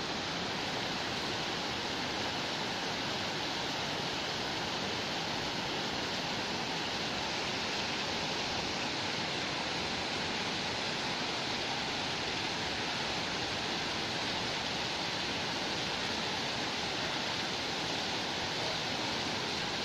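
Heavy rain pouring steadily onto a flooded brick courtyard, an even hiss of water striking standing water.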